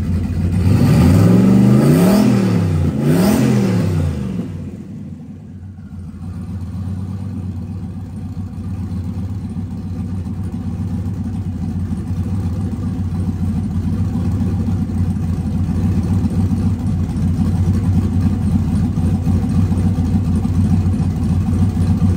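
Turbocharged 5.3-litre LS V8 engine blipped twice in quick succession, the pitch rising and falling each time. It then drops back to a steady idle of around 800 rpm.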